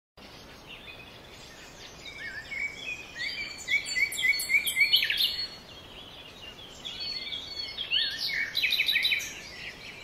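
Songbirds chirping and singing over a faint steady hiss of forest ambience, with short high sweeping notes. A quick run of repeated chirps comes about four seconds in, and another busy burst of song near the end.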